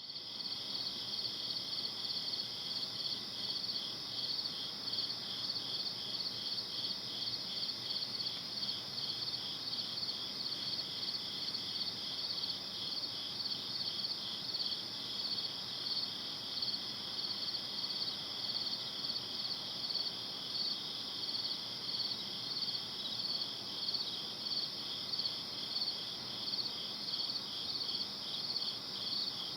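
Crickets chirping in a continuous night chorus: high-pitched, evenly repeating pulses that keep a steady level throughout, over a faint low hiss.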